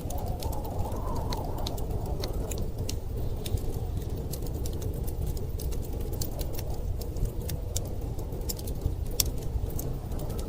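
Wood fire crackling with frequent sharp, irregular pops, over a steady low rush of storm wind.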